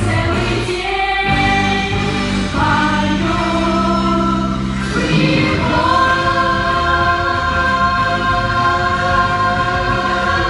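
Teen vocal ensemble singing in chorus over a pop backing track, holding a long sustained note from about halfway through.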